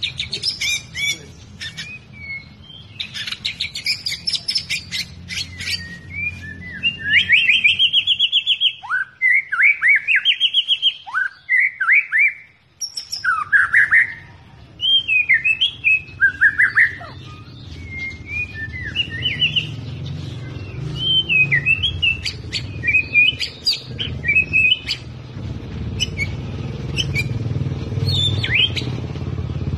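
White-rumped shama singing a long, varied song: rich whistled phrases, quick trills, sliding notes and sharp clicks, with few pauses. A low background rumble grows louder near the end.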